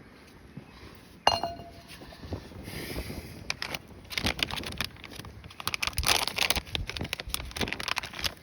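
A sharp clink that rings briefly about a second in, then a stretch of rapid, irregular clattering and knocking, like objects being handled and set down.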